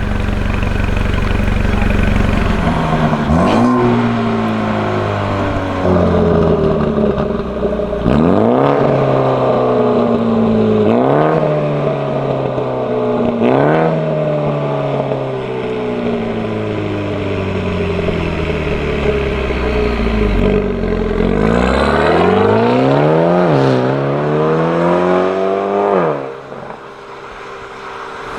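BMW M135i (F40) 2.0-litre turbocharged four-cylinder breathing through a catless downpipe and valved full aftermarket exhaust, being driven. The engine note jumps up sharply several times and sinks slowly after each jump. Near the end it drops to a quieter drone.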